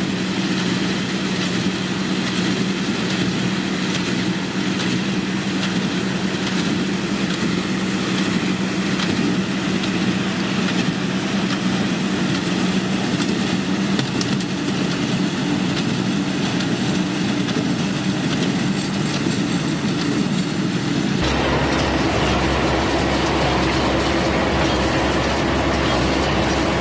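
Tractor and hay baler running steadily, an engine hum with a steady tone. About 21 seconds in it cuts abruptly to another machine running, with more low rumble.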